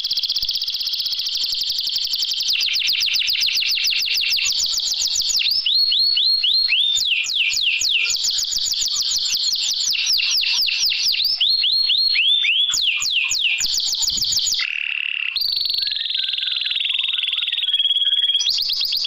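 Canary song played as an 'isian' training recording, used to get a reluctant canary to sing. It is an unbroken run of fast, high trills, each phrase repeating one note quickly, broken by stretches of repeated sliding whistles about three a second. There is one very short gap a little before the three-quarter mark.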